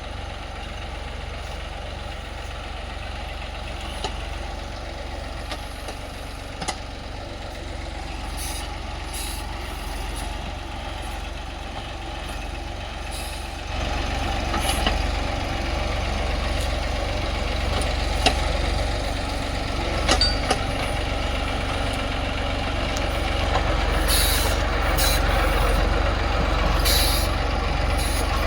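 Tractor engine running steadily under a loader, getting louder about fourteen seconds in, with a few short high-pitched sounds over it near the middle and toward the end.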